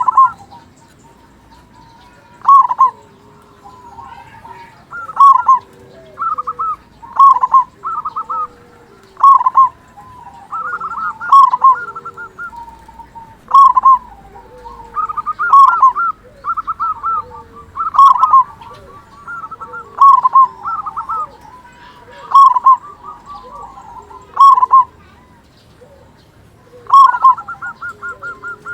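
Zebra dove (perkutut) cooing, phrase after phrase every one to two seconds: each phrase a quick stuttering run of notes ending in a louder coo, with a short break near the end.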